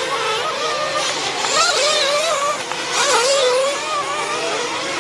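Small engines of several RC off-road racing trucks on track, their high-pitched whines rising and falling together as the cars accelerate and brake.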